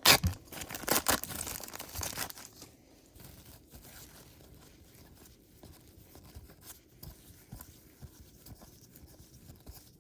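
A baseball card pack's wrapper being torn open and crinkled for the first couple of seconds, then faint rustling and light clicks of cards being handled.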